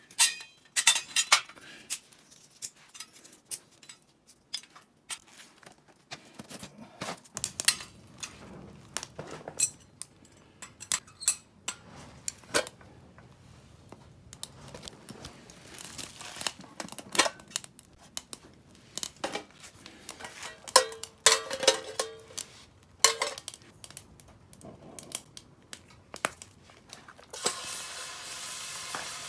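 Handling of cookware and food packaging: scattered metal knocks and clinks, some briefly ringing, with tearing and crinkling of wrappers. Near the end a steady sizzle of food frying in the pan begins.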